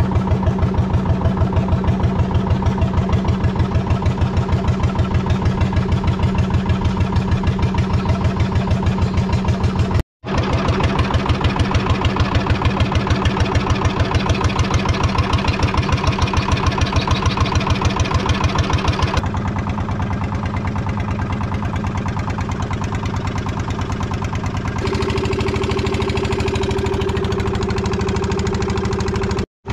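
Small boat engine, hand-cranked, running steadily with an even pulsing beat; its note shifts twice as the running speed changes, and it drops out briefly twice.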